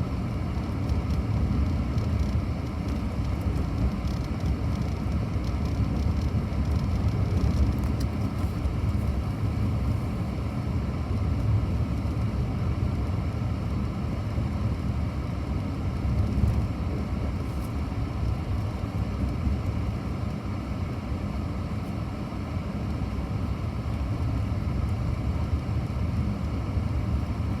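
Steady low rumble of a moving road vehicle, even and unbroken.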